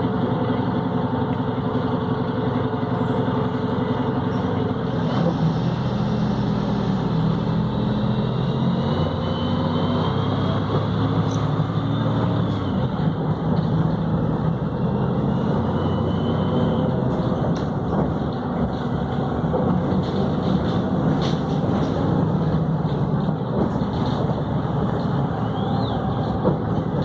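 Volvo B7RLE bus diesel engine running under way, with its pitch stepping up and down as the Voith automatic gearbox changes gear, and a faint whine that rises and falls.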